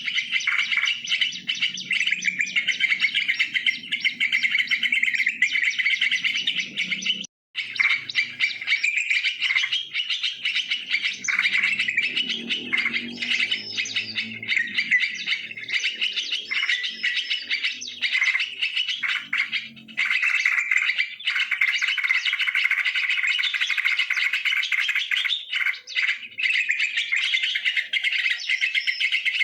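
Yellow-vented bulbuls (trucukan) calling and chattering continuously in a dense stream of bubbly chirps, with a brief break about seven seconds in.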